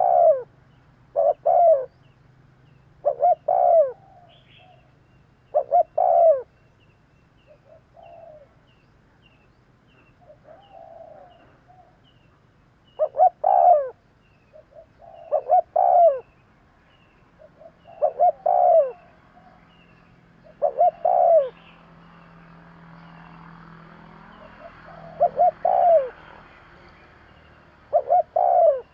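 Spotted dove cooing: short phrases of a few coos, repeated every two to three seconds, with a quieter stretch of only faint coos in the middle. A small bird chirps faintly and quickly in the background.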